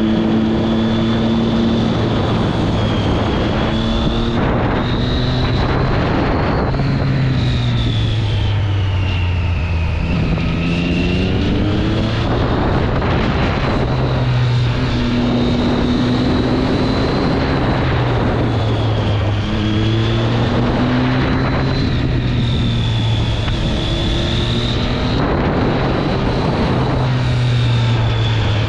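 Triumph Street Triple 675's three-cylinder engine through its stock exhaust, pulling up through the revs and dropping back at each gear change, several times over, with wind noise underneath.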